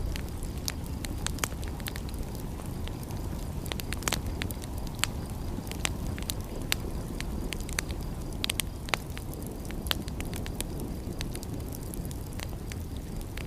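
Fireplace fire crackling, with frequent sharp irregular pops over a steady low rush. One pop about four seconds in stands out as the loudest.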